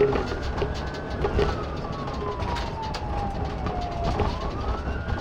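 Police car siren on a slow wail: it rises, holds, falls slowly over about three seconds, then starts rising again near the end. A low rumble runs beneath it.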